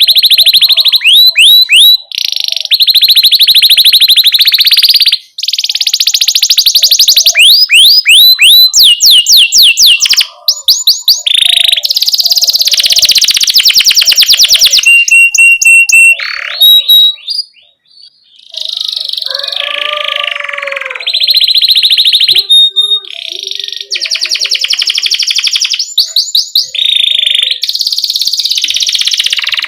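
Domestic canary singing loudly in fast rolling trills, switching from one rapid repeated-note phrase to the next every second or two, with sharp 'cuit cuit' chirps mixed in. This is the kind of 'gacor' song played to young canaries to teach them.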